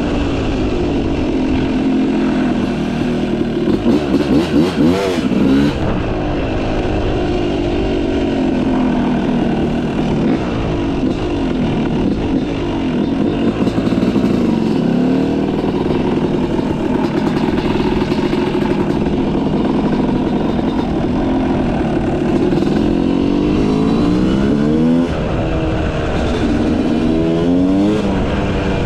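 Yamaha YZ250 two-stroke motocross engine with a Pro Circuit exhaust, revving up and down while being ridden. It makes quick rises and drops in pitch about five seconds in and several more near the end.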